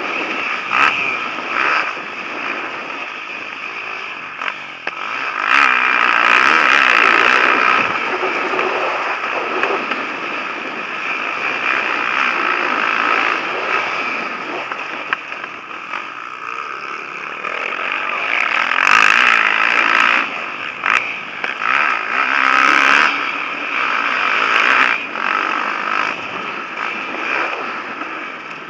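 Motocross motorcycle engines revving hard and passing, swelling loud several times and falling away between passes, fading near the end.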